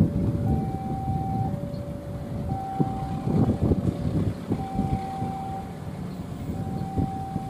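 Railway level-crossing alarm sounding two alternating tones, a higher then a lower note about a second each, over the rumble of a passing train with sharp clacks of wheels over rail joints.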